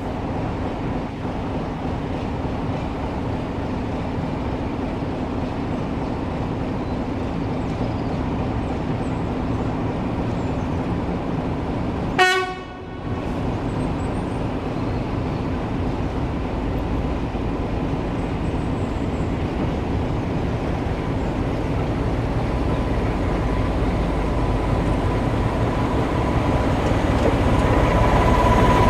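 A heritage train running with a steady rumble, with a brief horn toot about twelve seconds in. The sound grows louder near the end.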